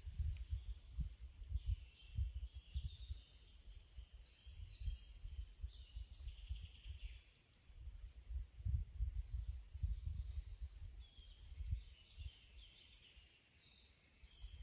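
White wagtails chirping, high and thin, in repeated clusters. Under them runs a louder, uneven low rumble that comes and goes, quietest near the end.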